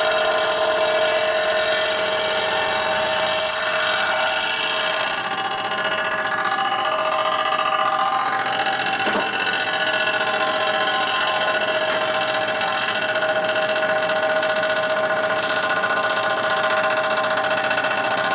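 A metal-cutting machine tool running steadily under a cut, a constant whine of several tones over a grinding noise, with one brief click about halfway through.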